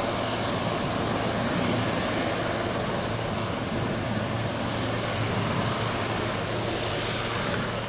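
Aerospatiale AS355F2 Ecureuil 2 twin-turbine helicopter running close by, a steady, loud rush of turbine and rotor noise over a low hum; it cuts off suddenly near the end.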